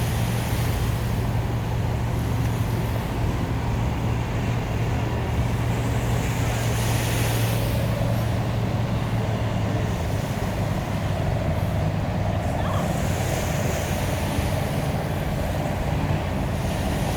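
Boat engine running with a steady low hum over the wash of water and wind noise on the microphone.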